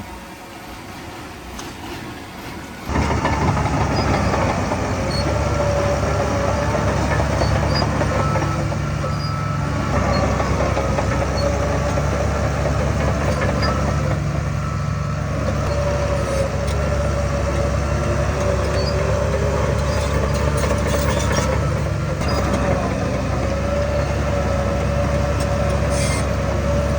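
Heavy earthmoving machinery's diesel engine running under load, with a wavering whine over its steady low drone. It is quieter for the first three seconds, then abruptly much louder.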